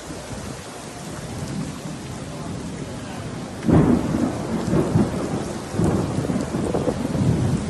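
Steady rain, then about halfway through a sudden loud clap of thunder whose low rumble rolls on in waves.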